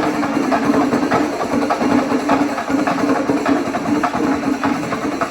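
Loud traditional percussion ensemble drumming in dense, rapid strokes, with a steady held tone underneath.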